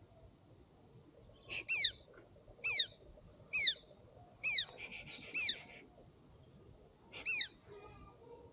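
A small bird calling close by: six shrill, sharply falling notes, about one a second, with a longer pause before the last.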